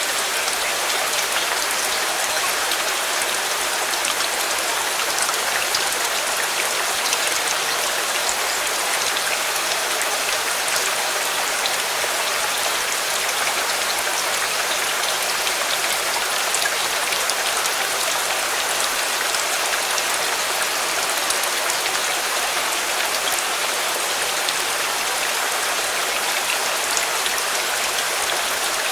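Steady rain falling: an even hiss of many small drops pattering on a surface, with no letup.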